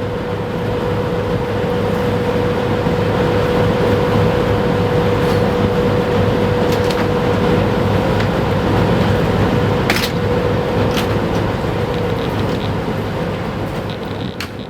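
Steady drone of a passing engine with a constant hum, swelling to its loudest in the middle and easing off toward the end, with a few sharp clicks near the end.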